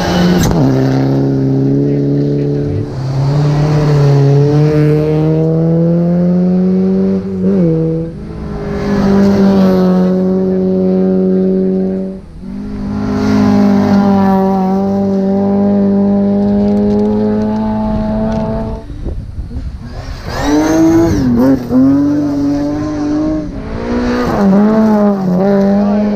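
Rally car engine accelerating hard through the gears, the pitch climbing steadily and then dropping at each gear change, four times. Near the end the revs waver up and down as the throttle is worked.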